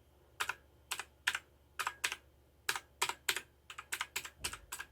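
ABKO Hacker K600 RGB mechanical keyboard being typed on: about a dozen separate key clacks, several in quick succession around four seconds in. The keys are being tested after a switch swap.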